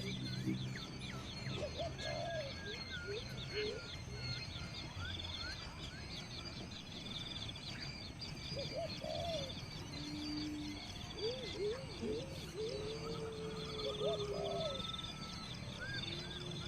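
Several birds calling at once: quick high chirps and trills repeat throughout, mixed with short mid-pitched calls and a few long, low whistles, over a steady low hum.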